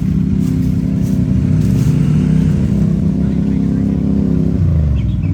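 Vehicle engine running under throttle at fairly steady revs, rising a little in pitch, then backing off about four and a half seconds in.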